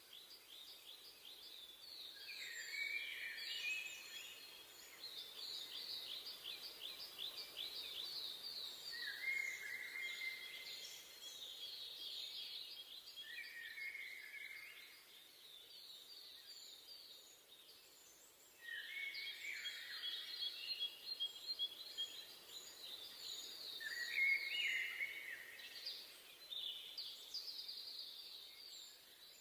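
Several songbirds singing in a forest, over a faint steady hiss: overlapping fast, high trills and whistled phrases that come in bouts every few seconds, with a short lull just past the middle.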